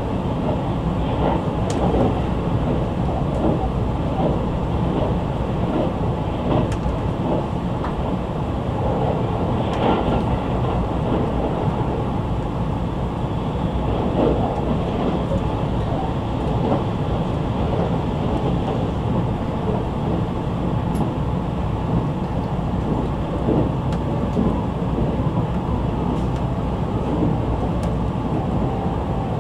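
Steady running noise of an E653 series electric train at speed, heard inside the passenger car, with a few faint clicks from the wheels and track.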